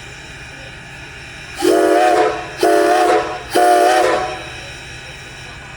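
Steam locomotive No. 90, a 2-10-0 Decapod, sounding its chime whistle in three short blasts, each a steady chord of several notes, starting about a second and a half in.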